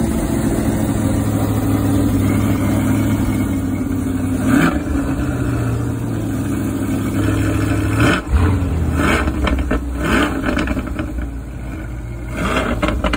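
A car engine running close by, its revs rising and falling a few times.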